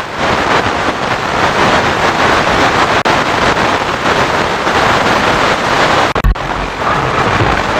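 FM radio receiver putting out loud, steady static hiss, with a short break and click about six seconds in. This is the noise of a frequency with no station coming through, which the title calls noise on many frequencies.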